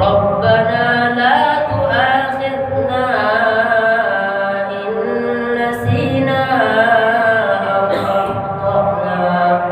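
A boy's voice reciting the Quran in a melodic chant, drawing out long held notes that step up and down in pitch.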